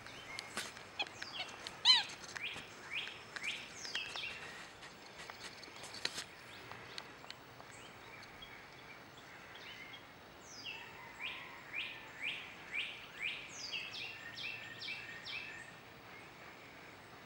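Songbirds chirping, with a regular run of quick down-slurred notes, about two a second, in the second half. A single louder, short squeak comes about two seconds in.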